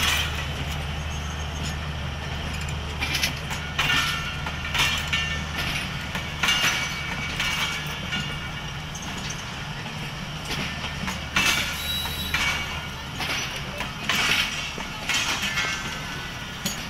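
Pakistan Railways passenger coaches rolling slowly past, their wheels knocking and clattering over the rail joints at irregular intervals with faint wheel squeal. A low steady hum from the passing power van fades out about six seconds in.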